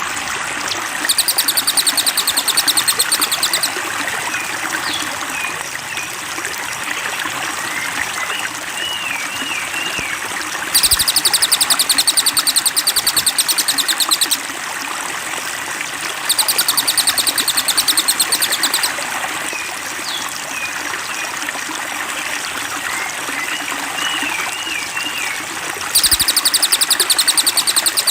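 Flowing water running steadily under a looped bird-training recording. Four times, a loud, very rapid, high-pitched trill lasts about three seconds. Between the trills come short, wavering whistled bird phrases.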